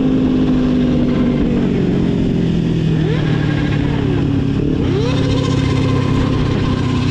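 Motorcycle engine running while riding, its note stepping down about a second in, with a few quick rises and falls in pitch between about three and five seconds in.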